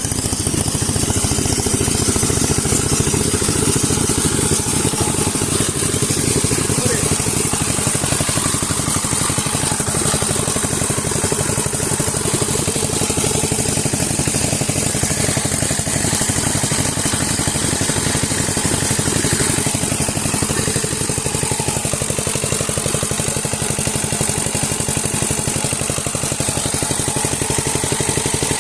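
Sifang power tiller's single-cylinder diesel engine running steadily with a rapid, even beat.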